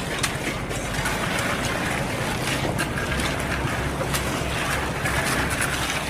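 Heavy diesel engine of a cement mixer truck running steadily, under a broad rushing noise with scattered clicks and knocks.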